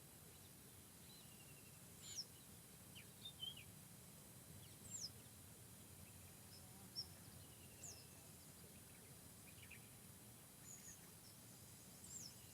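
Faint forest birdsong: a thin, high whistle sliding downward repeats every two to three seconds, with a few short lower chirps between, over a low steady background hiss.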